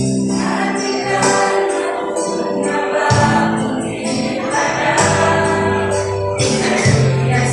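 Church youth choir of young men and women singing a Christian song in parts over instrumental accompaniment with a jingling tambourine.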